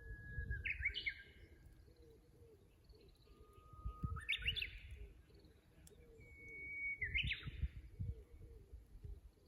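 Japanese bush warbler singing its hoo-hokekyo song three times, about three seconds apart. Each song is a long steady whistle followed by a quick flourish of notes. A faint low rumble runs underneath.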